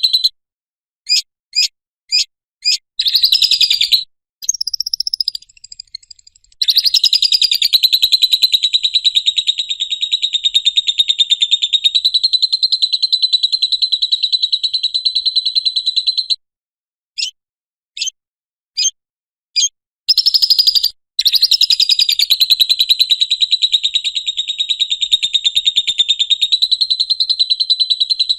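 Lovebird ngekek call: long, rapid, high-pitched chattering trills, each held for about ten seconds, broken up by a few short, sharp chirps in quick succession.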